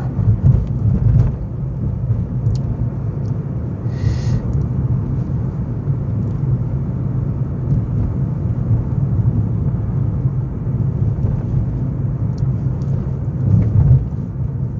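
A car being driven, heard from inside the cabin as a steady low road and engine rumble. There is a brief hiss about four seconds in.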